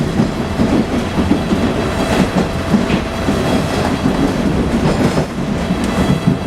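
Inside a Toronto Bombardier T1 subway car running between stations: a steady rumble of steel wheels on the rails with irregular clickety-clack knocks, and a faint steady whine above it.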